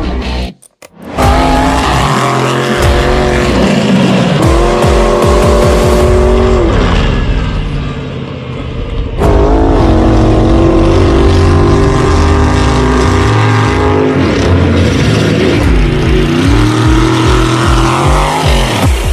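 Alcohol-injected big-block Chevy V8 of a mega truck, running loud and revving up and down repeatedly, with a brief dropout under a second in.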